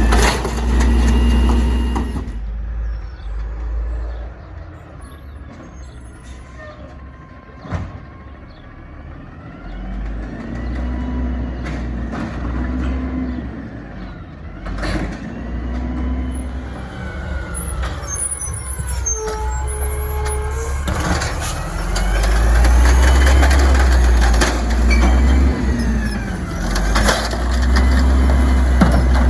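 Garbage truck engine revving up and falling back again and again while it works, with a few sharp clanks and short air hisses. It is loudest over the last several seconds.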